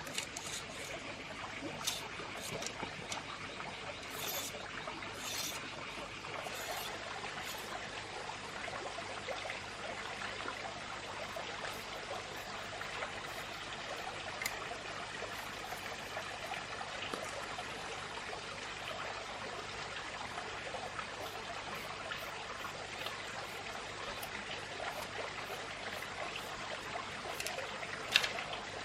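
Water trickling steadily, with a few light clicks now and then and a sharper click near the end.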